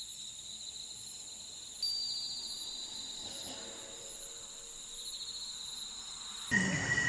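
Insects, such as crickets, trilling steadily in high-pitched, pulsing tones; a second high trill joins about two seconds in. Near the end the sound cuts abruptly to a louder, lower insect trill.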